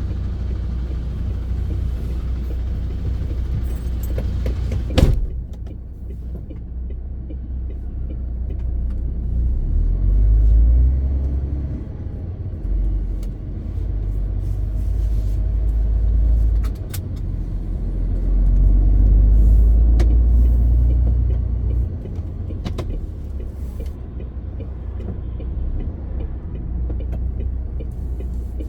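MAN TGX 18.520 truck's six-cylinder diesel engine running on the road: a low steady drone that swells louder three times, as it does under changing load. A sharp click about five seconds in, and a few fainter clicks later.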